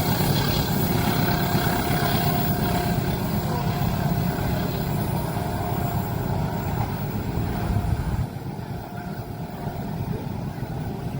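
Train passing a level crossing: a steady, heavy low rumble that drops off sharply about eight seconds in as the train's passing ends, leaving a quieter background rumble.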